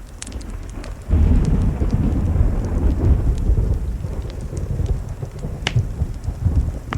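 Low thunder rumbling in suddenly about a second in and rolling on, over steady rain. A few sharp crackles from a wood fire sound above it.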